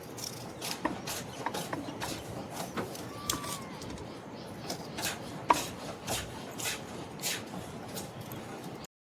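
Irregular clicks and knocks, several a second, over a steady scraping, rubbing noise, as of hands working with wooden things.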